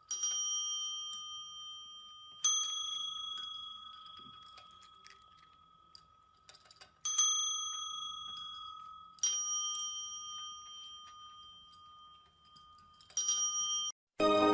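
A small metal bell struck five times, each strike ringing out clearly and fading away before the next; the last ring is cut short.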